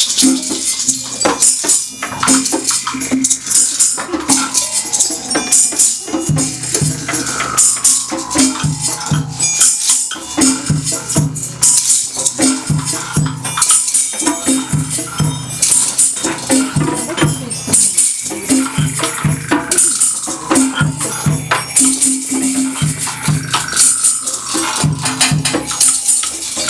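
A percussion ensemble playing a steady, busy groove: low drum strokes under continuous shakers and tambourine, with a few sliding higher tones over the top.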